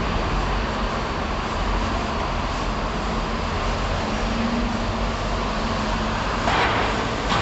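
Steady city background of traffic and train rumble, with a short, louder hiss near the end.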